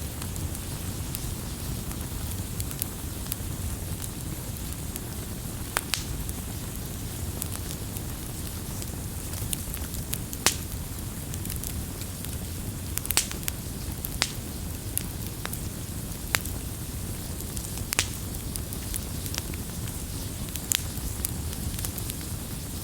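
Wood campfire burning with a steady low rumble, crackling and popping at irregular moments, with a dozen or so louder sharp pops.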